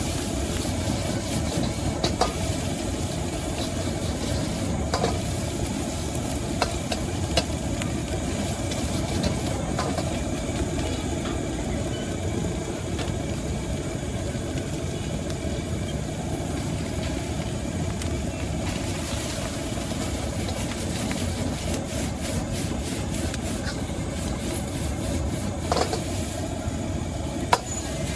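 Stir-frying in a wok: a steady low roar with sizzling, and now and then a sharp clack of the metal spatula striking the wok.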